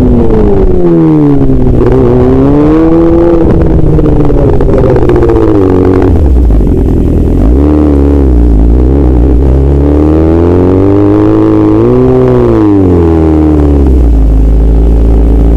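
A loud motorcycle engine revving, its pitch climbing and dropping again several times as the throttle opens and closes, with a heavy low rumble under it in the second half.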